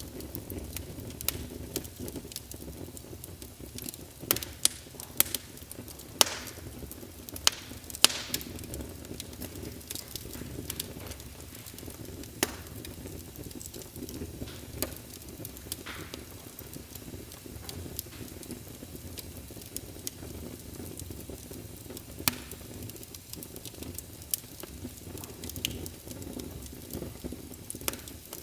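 Crackling wood-fire sound from a wireless fireplace sound emulator: a steady low rushing with irregular sharp pops and snaps, the loudest cluster a few seconds in.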